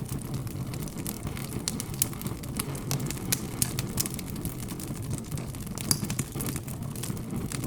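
Wood fire crackling: irregular sharp pops and snaps, the loudest about two and six seconds in, over a low steady murmur.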